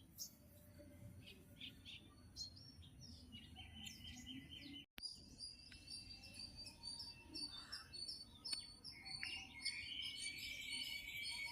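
Small birds chirping, with rapid repeated short high chirps and a longer trill that comes twice, the second near the end.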